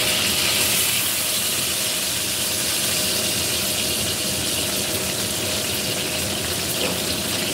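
Eggplant slices topped with minced fish sizzling as they shallow-fry in hot oil in a frying pan: a steady, even sizzle.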